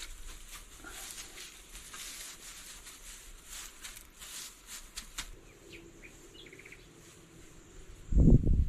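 Birds chirping outdoors over a soft rustling, scratchy background with small clicks, with one short trill a little after the middle. Near the end a sudden loud low rumble cuts in and drowns the rest.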